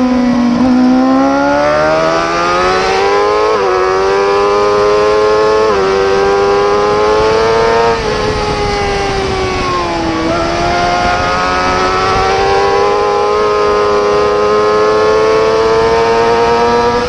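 Superbike race motorcycle engine at high revs, pulling hard through three quick upshifts. Its pitch drops sharply at each shift. It eases off around ten seconds in, then climbs again under throttle.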